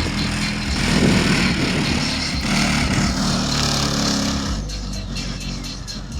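Loud bass-heavy music playing through a car audio system powered by two Accendant Audio Chaos 12-inch subwoofers on an American Bass VFL 4800.1D amplifier. The deep bass notes keep changing.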